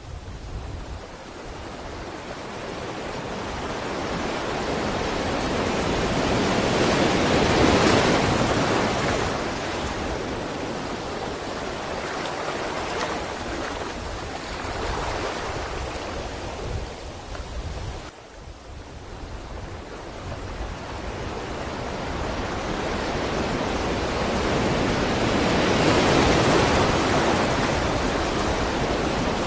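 Sea waves washing onto a shore: a steady rush of surf that swells to a loud crest about eight seconds in, eases off, drops away briefly just past halfway, then builds to a second crest near the end.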